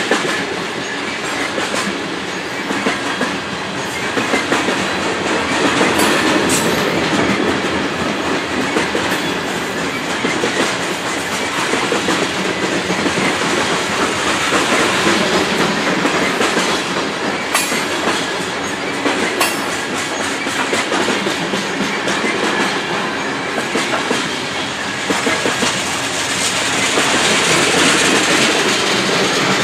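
Loaded coal hopper cars rolling past, their steel wheels clicking quickly and steadily over the rail joints. There are a few short high squeaks from the wheels.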